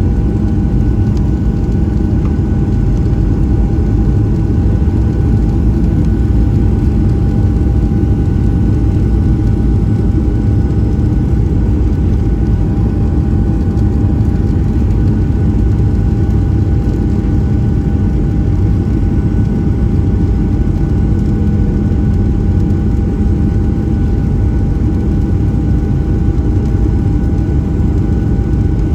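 Steady cabin noise inside a Boeing 737-700: a loud, even low rumble with a faint steady whine from its CFM56 jet engines, unchanging throughout.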